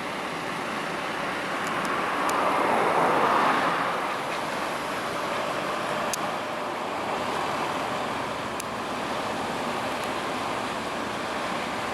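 Road traffic noise, a vehicle going by loudest about three seconds in, its sound falling away after it passes.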